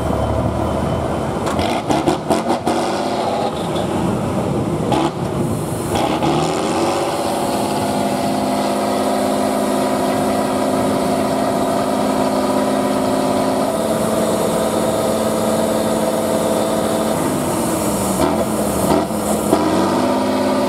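Off-road trial truck's engine revving hard under load. Its pitch climbs about seven seconds in and is held high, shifts a little partway through, then drops and climbs again near the end. Several sharp knocks and clatters come in the first few seconds.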